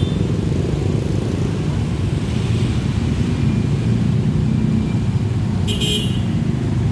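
Steady low engine rumble of vehicles near a railway crossing. Near the end comes a brief high-pitched squeal.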